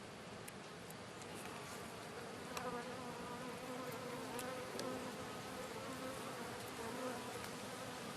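Honey bees buzzing around an opened hive: a faint, wavering drone of several overlapping pitches that grows a little clearer partway through. The bees could be agitated.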